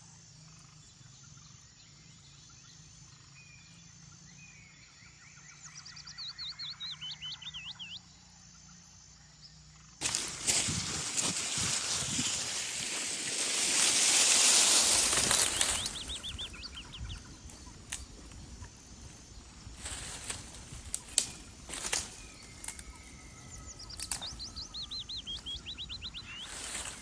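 Forest birds calling, including a fast, repeated trill and thin whistles. About ten seconds in, a loud rush of wind sets in, swells for a few seconds and eases off, and irregular sharp cracks and taps follow.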